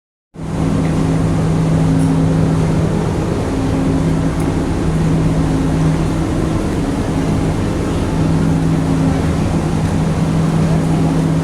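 Steady low engine drone on the car deck of a roll-on/roll-off ferry, with two held humming tones over a dense rumble.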